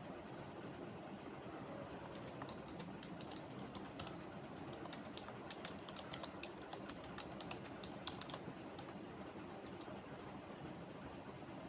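Typing on a computer keyboard: irregular runs of keystroke clicks that start about two seconds in and stop shortly before the end, over a steady low background hum.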